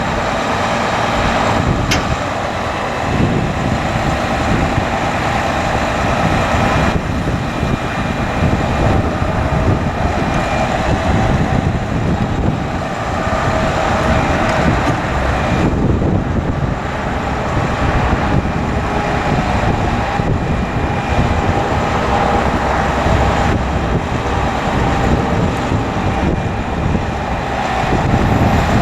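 Diesel engine of a Hino 338 bucket truck running steadily, with a faint whine whose pitch shifts a few times through the stretch. A single sharp click comes about two seconds in.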